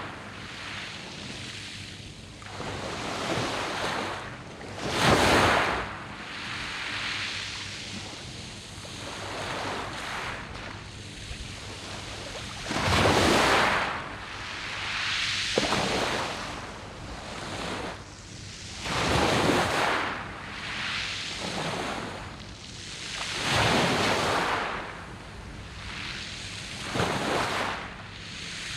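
Sea waves washing up a beach of round, smooth pebbles, surging in every few seconds with uneven strength, some swells much louder than the rest.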